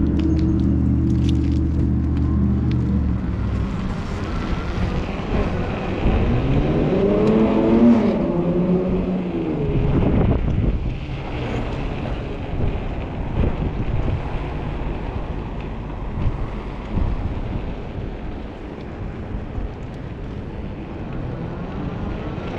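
A motor vehicle's engine: a steady low hum at the start, then a pitch that rises and falls between about six and ten seconds in, as a car revs or passes. After that, rough wind and riding noise on the microphone.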